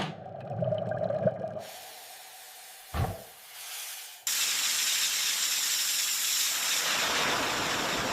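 A low hum fades out, a single dull thump comes about three seconds in, and then a steady hiss starts abruptly about four seconds in and holds.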